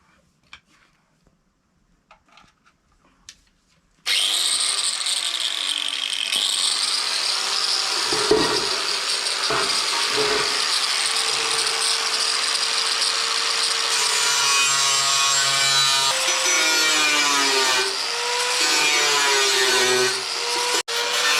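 After a few light clicks, an electric power tool starts about four seconds in and runs loudly on wood, its motor pitch dipping and recovering as it bites into the cut.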